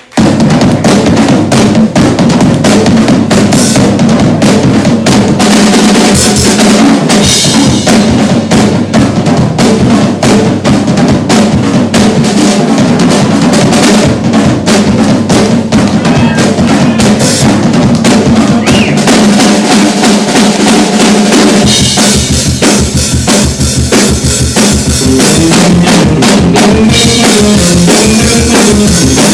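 Live rock drum kit played hard, with bass drum, snare and rimshot hits dense throughout. The recording runs at close to full level and sounds harsh.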